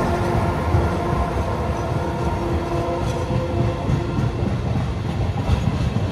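Train running through a station: a steady whine over a heavy low rumble, with the whine fading away about three to four seconds in.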